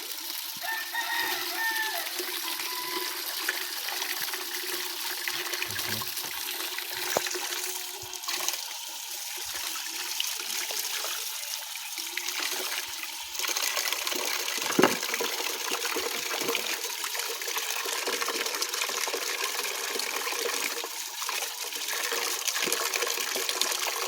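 Water running and splashing as freshly gathered goosegrass is washed by hand, with chickens calling in the background.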